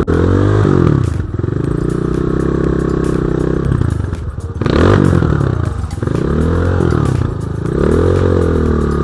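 BSE J1 enduro motorcycle engine under load, revving up and falling back again and again as the throttle is worked, with its loudest surge about five seconds in.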